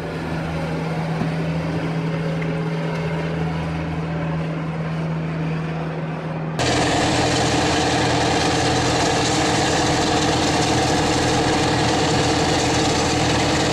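Engine of heavy log-handling machinery running steadily. About six and a half seconds in, it cuts abruptly to a louder, rougher engine with a fast, even pulsing.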